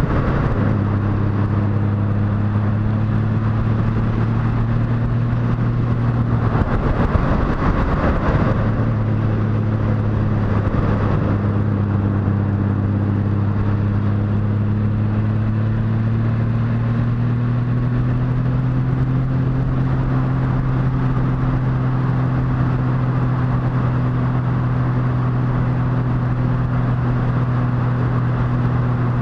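Motorcycle engine running at a steady cruise, heard from the rider's seat with wind noise over the microphone. The engine note breaks off briefly about seven seconds in, then picks up again and later settles a little higher.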